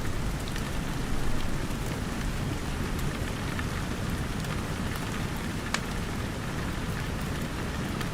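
Steady rain with a deep, full hiss, and a wood fire crackling with a few sharp pops.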